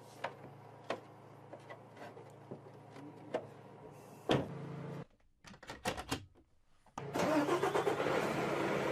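A vehicle engine starting: scattered clicks over a low hum, a sudden loud hit about four seconds in, a few more clicks, then the engine running loudly from about seven seconds in.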